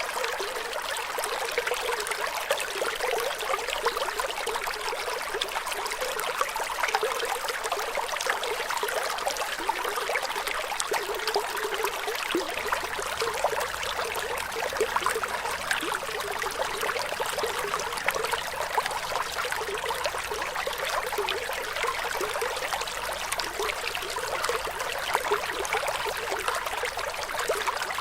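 Flowing water trickling steadily, with many small splashes and no pauses.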